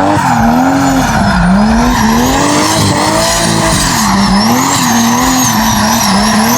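Car doing donuts: the engine revs up and down over and over while the tyres squeal against the pavement.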